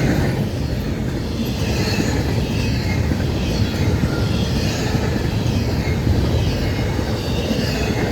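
Florida East Coast Railway intermodal freight train loaded with UPS trailers rolling past close by: a steady, loud rumble and clatter of wheels on the rails.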